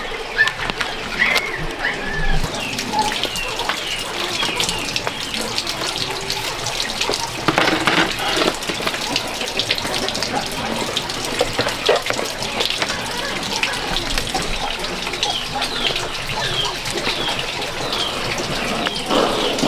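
Water running and splashing steadily, with small birds chirping over it and occasional light clatter.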